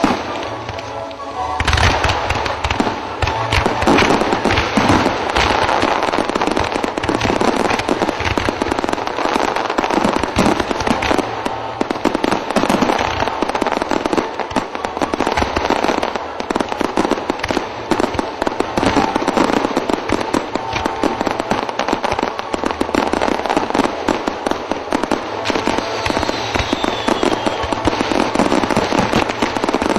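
Fireworks display with a dense, unbroken run of bangs and crackling that starts suddenly about a second and a half in. Near the end there are a couple of faint falling whistles.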